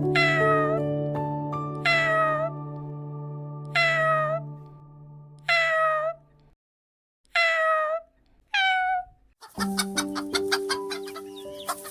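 A cat meowing six times, each meow short and falling in pitch, over soft piano music that drops out for a few seconds midway.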